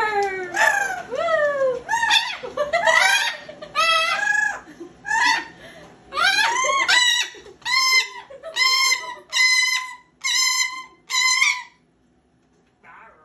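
Orange-winged Amazon parrot calling in a long run of about twenty loud calls, roughly two a second. The early calls glide down in pitch and the later ones are steadier, and they stop shortly before the end.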